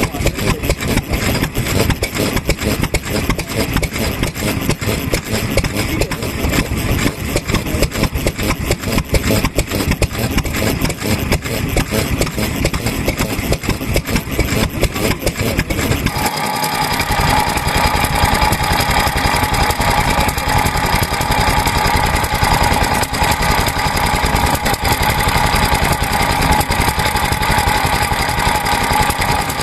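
Vintage stationary kerosene engines running with a rapid, even chugging beat. About halfway through, the sound changes abruptly to a steadier running note with a high whine on top.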